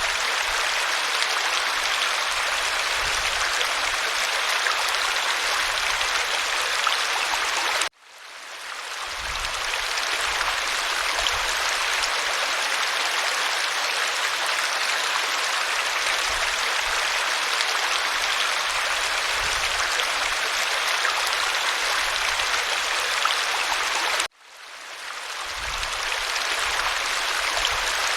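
Waterfall: a steady, dense rush of falling water. It cuts out abruptly twice, about eight seconds in and again near the end, each time fading back in over about a second.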